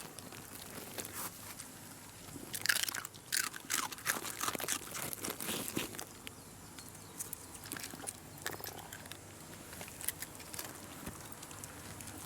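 Shiba Inu dogs chewing crunchy treats: irregular crunching and biting, busiest a few seconds in and then sparser.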